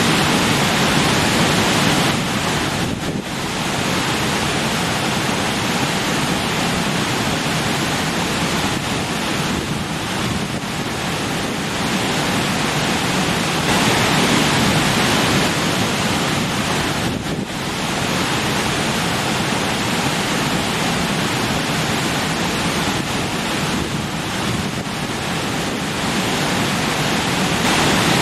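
Rushing stream splashing over rocks: a steady, dense rush of water that swells and eases slightly, with brief dips about three seconds in and again past halfway.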